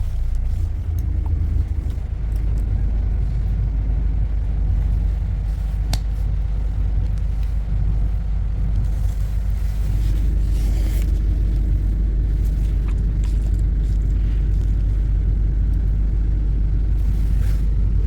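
Steady low rumble, like a vehicle in motion, with a few faint clicks; it grows slightly fuller about ten seconds in.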